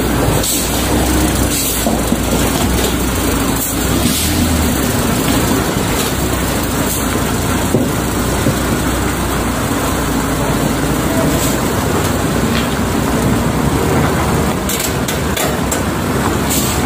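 Heavy truck running steadily, engine drone mixed with rushing road and wind noise and scattered short knocks and rattles.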